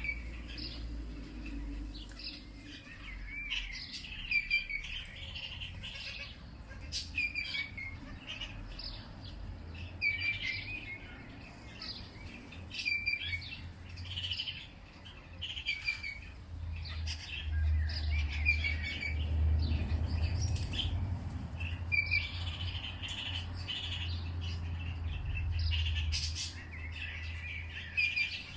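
Small songbirds chirping in short repeated calls, several a second at times, over a low steady rumble that swells in the second half.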